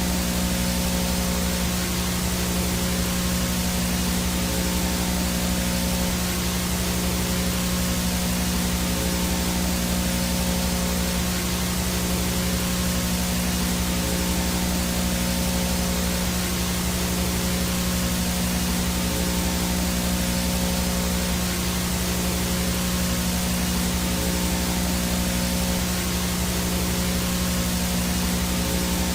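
Analog VHS/TV static: a steady hiss of white noise with a constant low electrical hum and faint steady tones underneath.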